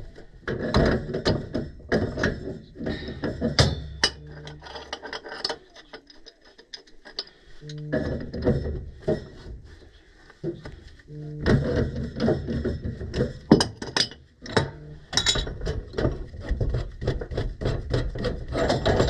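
Irregular knocks, clicks and scraping of hand tools and metal fittings being worked on a furnace gas valve and its gas piping, with quieter pauses between bouts of work.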